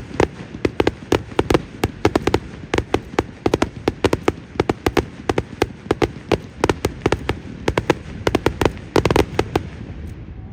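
Fireworks display: a rapid salvo of sharp firework bangs and crackles, several a second, that dies away near the end.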